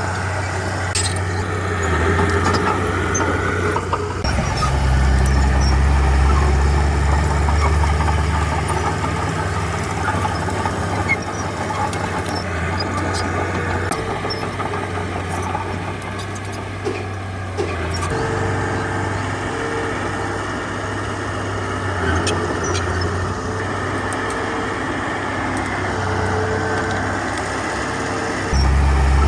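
Heavy diesel engine of earthmoving machinery running under changing load. It works harder for a few seconds early on, eases off past the middle, and steps up sharply again just before the end, with occasional clanks over it.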